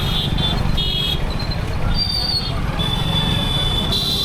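Riding along on a motorbike in town traffic: a heavy, steady rumble of wind on the microphone and road and engine noise. Over it come high-pitched beeping tones: a broken one in the first second, a short higher whistle about two seconds in, and a longer held tone near the end.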